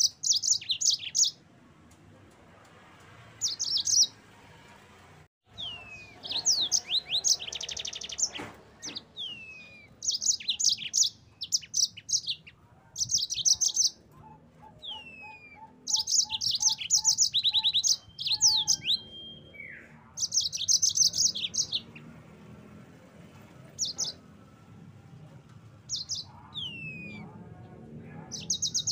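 Yellow-fronted canary (Mozambique canary) singing: short bursts of very fast, high trills every second or two, with quick down-slurred whistles between them.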